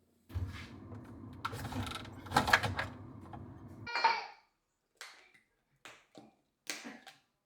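Household handling sounds: a few seconds of scraping, rumbling clatter, then a short squeak and a run of four light knocks.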